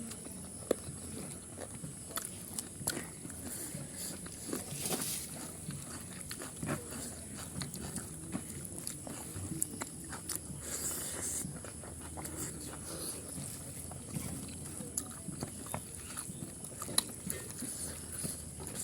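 Close-miked chewing and eating of pork curry: wet chewing with irregular small smacks and clicks, over a faint steady high hiss.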